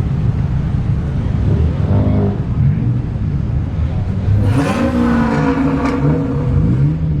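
Car engines running with a steady low rumble, with a rise and fall in pitch partway through.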